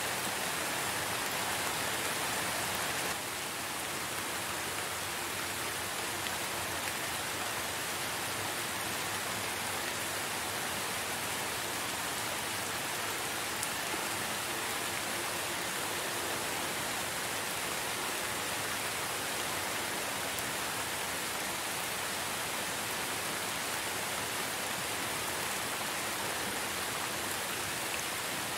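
Steady rain falling, an even hiss with no single drops standing out; it drops a little in level about three seconds in.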